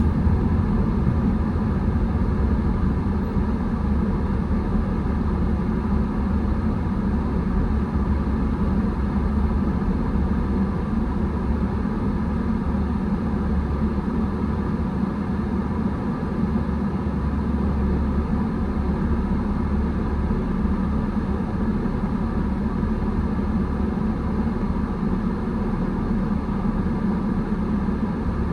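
Steady road and engine noise of a car driving, a low rumble that holds even throughout.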